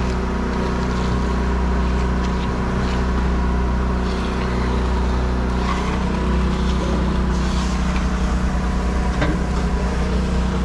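An engine running steadily at an even speed, a loud low drone that does not rise or fall.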